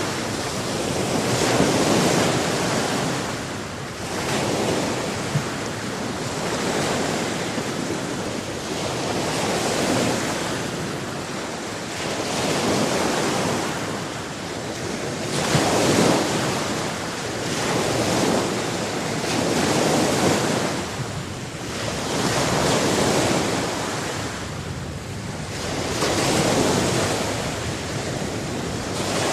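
Sea waves breaking and washing in, the surge swelling and falling back about every two to three seconds.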